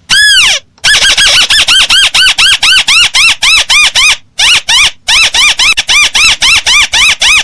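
Crake (burung tikusan) calls played as a trapping lure: one long arched note, then a fast run of short rising-and-falling notes, about five a second, with a short break about halfway through.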